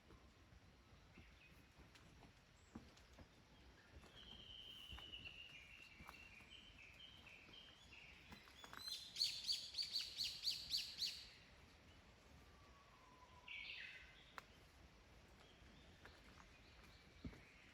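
Wild birds calling. A falling run of notes comes first, then the loudest part midway: a rapid series of about ten sharp, high notes lasting a couple of seconds. A short call follows a little later.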